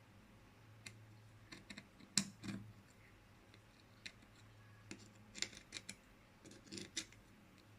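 Faint, scattered clicks and light scraping as multimeter probe tips are set on and slid over the pins and solder joints of a small welder's circuit board, in two clusters.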